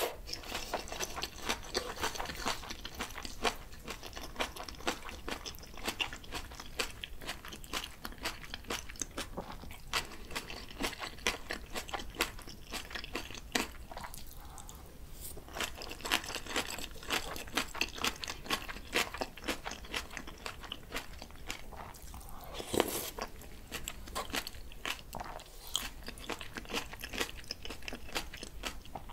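Close-miked chewing of bibimbap mixed with raw radish salad and spring cabbage geotjeori: crisp crunching and wet mouth sounds, with a short quieter pause about halfway.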